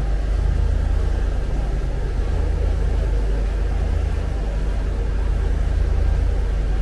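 The 1998 Sea Ray 370 Sundancer's MerCruiser 7.4 inboard engines running steadily underway: a constant low drone with an even wash of noise over it.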